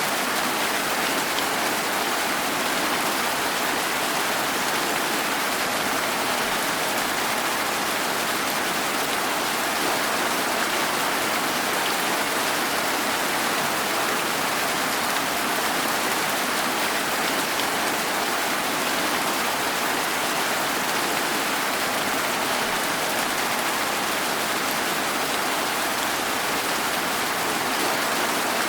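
Steady rain falling, an even hiss with no let-up, heard from a room.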